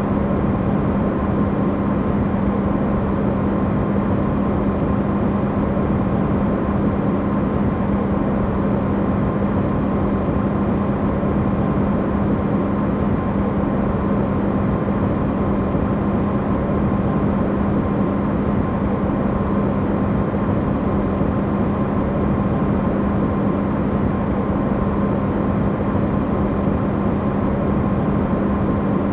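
Electrolux refrigerator running, recorded amplified: a steady low hum with an even rushing noise over it and a faint higher tone, with no change.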